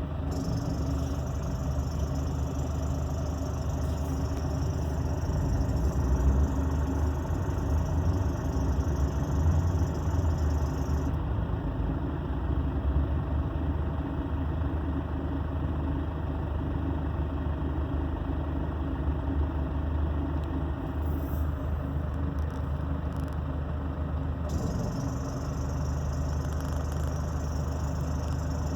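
2008 Nissan Frontier's MWM turbodiesel idling, with a high-pitched squeal from a worn belt tensioner that is close to failing. The squeal stops about eleven seconds in and comes back near the end, cutting in and out as the air-conditioning compressor engages and disengages.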